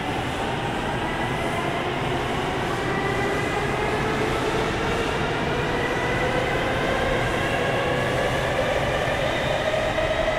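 N700S Shinkansen train pulling away, its traction motor whine climbing slowly and steadily in pitch as it gathers speed, over the train's running noise.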